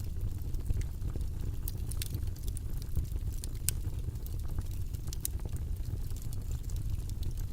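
Steady low rumbling background noise from a study white-noise track, with scattered faint light clicks over it.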